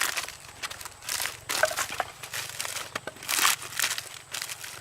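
Irregular rustling and crinkling of things being handled, in a series of short bursts, the loudest a little past three seconds in.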